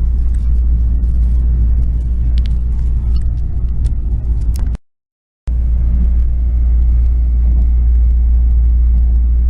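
Passenger train running at speed, heard from inside the carriage as a steady deep rumble with a few faint clicks. The sound cuts out to silence for about half a second near the middle.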